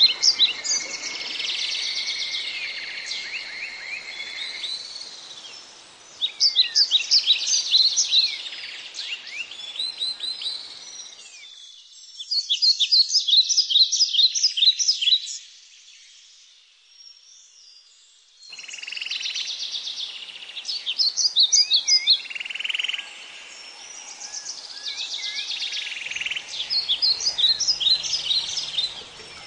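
Birds calling in repeated bouts of rapid, high chirping notes, each bout lasting two or three seconds, over a steady hiss of background noise. The sound drops away almost to silence for a couple of seconds a little past the middle.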